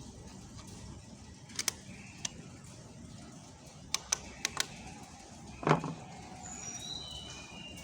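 Light clicks and taps of engine parts and tools being handled during engine reassembly, with a heavier knock about two thirds of the way through. A bird chirps in a quick falling series near the end.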